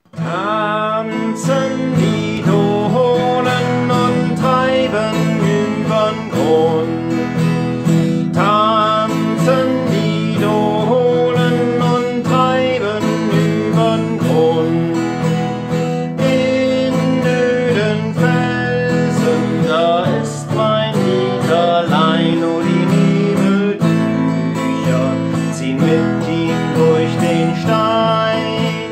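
Acoustic guitar strummed steadily, accompanying a folk campfire song.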